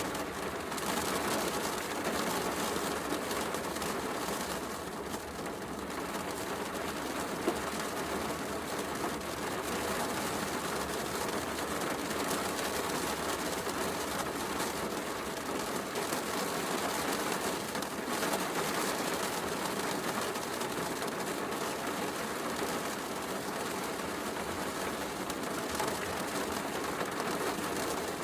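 Heavy rain falling steadily as an even hiss, with a wood fire crackling and an occasional sharp pop, the clearest about seven seconds in.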